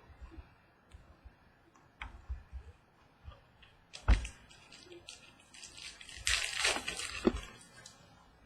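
Trading cards and packs being handled on a table: light clicks and taps, and a thump about four seconds in. Then about a second of crinkling and tearing as a foil card pack is ripped open.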